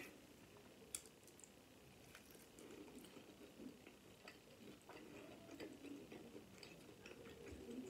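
Faint chewing of a taco empanada, soft mouth sounds with scattered small clicks and one sharper click about a second in.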